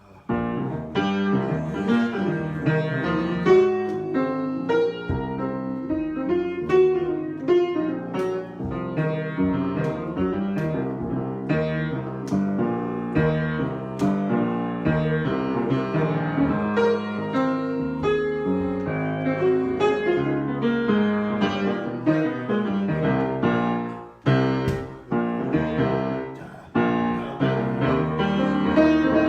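Solo piano improvisation, many notes played in quick succession with chords in the low and middle range. The playing starts just after a short silence and briefly falls away about 24 seconds in before resuming.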